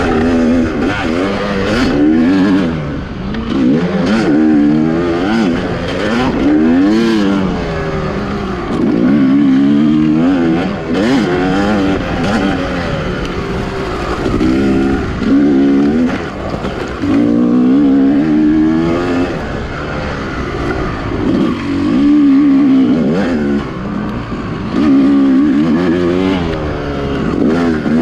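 Two-stroke dirt bike engine revving up and falling back over and over as the rider works the throttle along the trail, each rise and drop lasting a second or two.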